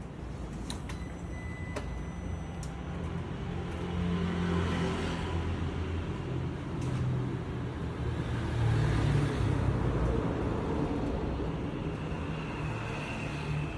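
Harley-Davidson Nightster Special's 975 cc liquid-cooled V-twin starting and running, with a few clicks in the first couple of seconds. It is revved twice, about four seconds in and again near nine seconds, falling back each time.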